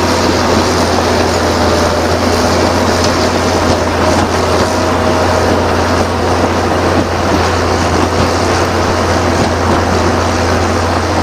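Ford TW-15 tractor's six-cylinder turbo diesel engine running steadily at a constant speed, with a deep, even hum.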